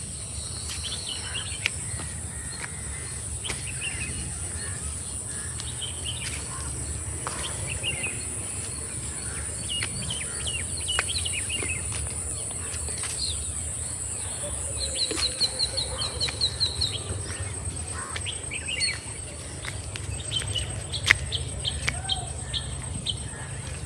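Wild birds chirping and calling, with a fast trill of repeated notes about fifteen seconds in, over a steady high insect buzz.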